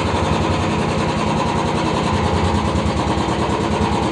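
Royal Enfield Classic 350 BS6 single-cylinder engine idling just after starting, with a steady, even thump through its stock silencer, whose end has been cut open to a wider outlet.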